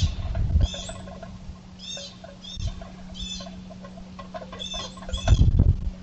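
A bird calling repeatedly in short, arching calls, about eight in all, with gusts of wind rumbling on the microphone at the start and again near the end.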